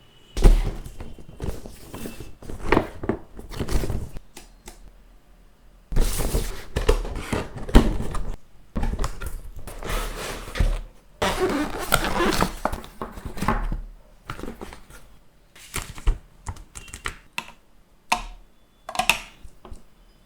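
A gaming headset being unboxed by hand: cardboard box and packaging sliding, rustling and being opened, with irregular thunks and clicks as parts are set down and handled.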